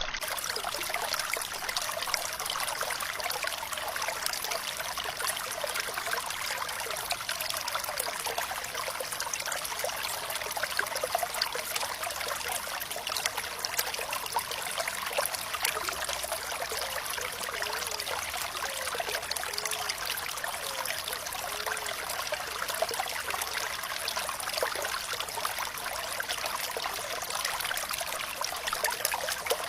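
Flowing water trickling and splashing steadily, a light, hissing flow with little deep rumble and small bubbling sounds, like a small stream.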